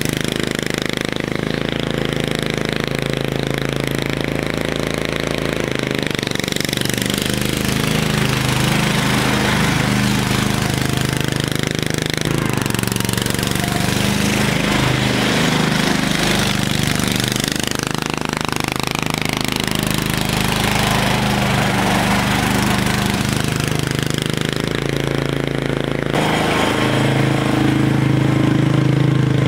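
The 16 hp cast-iron Briggs & Stratton engine of an MTD 990 lawn tractor running steadily through a homemade pipe exhaust. Its speed wavers a little in places and shifts near the end.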